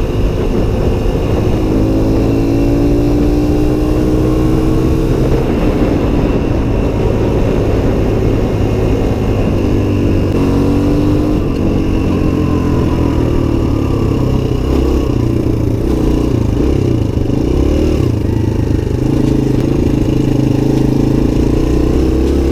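Suzuki DR-Z125's small single-cylinder four-stroke engine running and revving, its pitch rising and dropping back several times as the bike accelerates.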